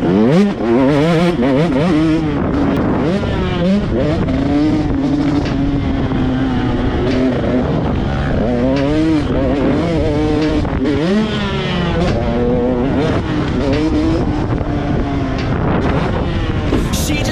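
Motocross bike engine revving hard and dropping back again and again as the rider works the throttle and shifts around the track, the pitch climbing and falling every second or two.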